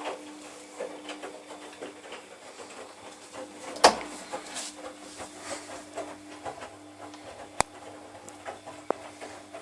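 Laundry machine running: a steady motor hum with irregular light knocks and clicks from the turning drum, one louder knock about four seconds in and two sharp clicks near the end.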